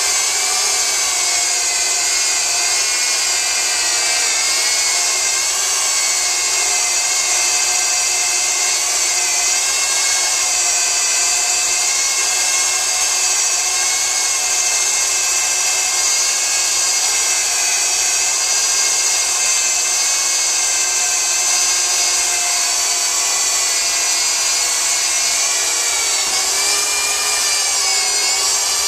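Two drills running at full speed, each driving a hole saw through a wooden board in a race: a steady, loud whine from the motors over the rasp of the saw teeth cutting wood. The competitor's saw is cutting hotter and slower, burning the wood and smoking, while the Lenox Speed Slot saw cuts clean.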